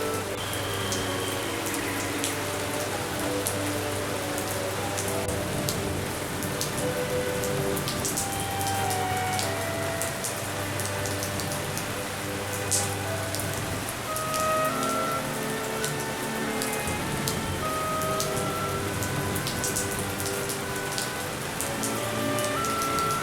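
Steady rain falling on hard surfaces, with many sharp drop ticks through it. Soft held notes at changing pitches run faintly underneath.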